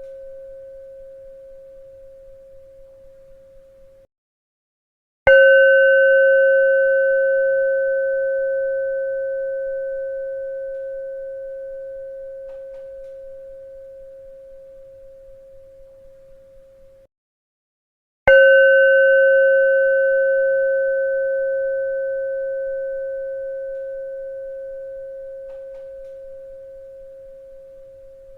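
A bell struck twice, about thirteen seconds apart, each stroke ringing a steady, pure tone with a few fainter higher overtones that fades slowly. Each ring is cut off abruptly about a second before the next strike, leaving a short silence, and the tail of an earlier ring is cut off the same way about four seconds in.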